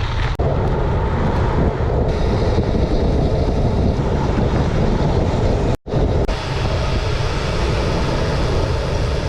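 Wind buffeting the microphone: a loud, steady rushing rumble, heaviest in the low end. It cuts out for an instant just before six seconds in.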